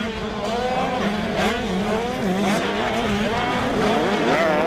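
Racing-engine sound effect: several overlapping engines revving up and down, their pitch wavering continuously.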